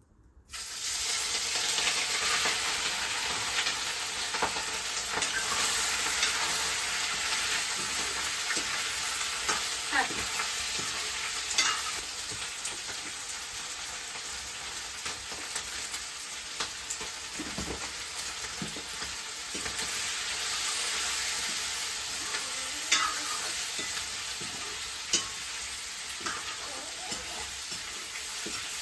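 Chicken pieces frying in hot oil in a pan, with a steady sizzle that starts suddenly about half a second in. A few sharp clicks of a spoon against the pan are heard as the meat is stirred.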